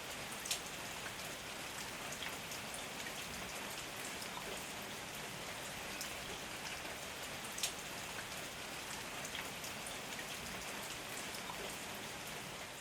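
Heavy rain falling steadily, a continuous hiss with scattered sharp ticks of single drops striking close by; two drop hits stand out, about half a second in and again past the middle.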